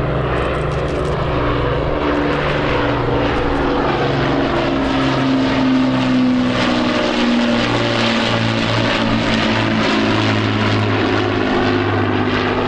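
Piston propeller aircraft engines running steadily as an aircraft flies a display pass, the engine note shifting lower around the middle as it goes by.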